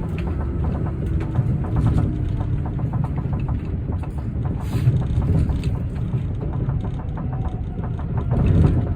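Osaka Metro New Tram, a rubber-tyred automated guideway train, running along its guideway. It makes a steady low rumble with quick rattling ticks over the track, and a faint motor whine in the first few seconds.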